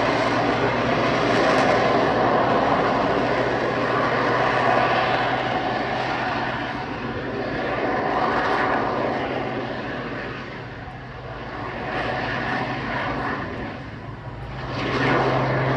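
Display aircraft's twin jet engines running through an aerobatic sequence, the noise swelling and fading several times as the aircraft manoeuvres and changes thrust.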